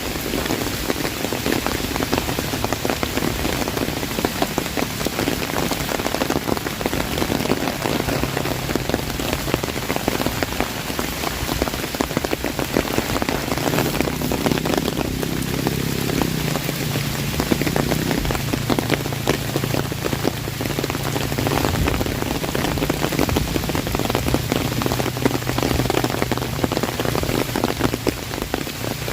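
Heavy rain falling on an umbrella: a dense, steady run of drops hitting the canopy overhead.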